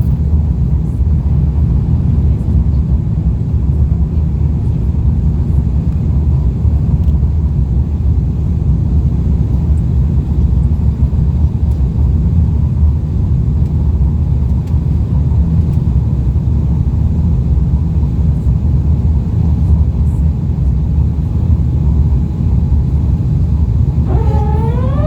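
Cabin noise of an Airbus A350-900 with Rolls-Royce Trent XWB engines: a loud, steady, low rumble of engines and airflow heard from inside the cabin. About a second before the end a rising electronic tone comes in.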